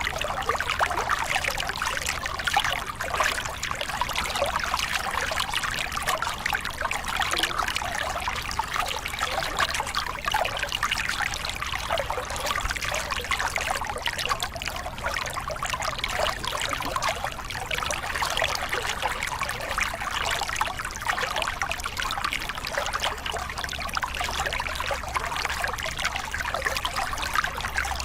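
Small river cascade: water pouring and splashing over rocks in a steady, continuous rush.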